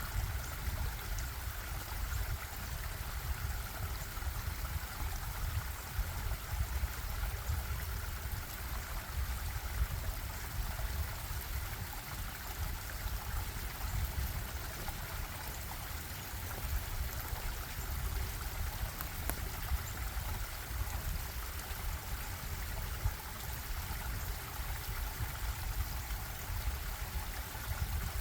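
Stream water flowing and bubbling steadily, with a low rumble underneath.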